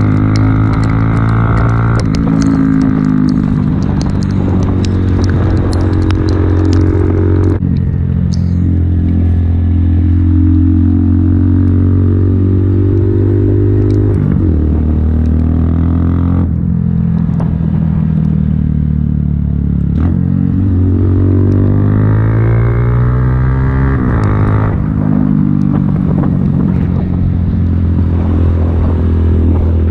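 Honda Grom's 125cc single-cylinder engine under way, its note climbing steadily and then dropping sharply several times as the bike accelerates and shifts gear.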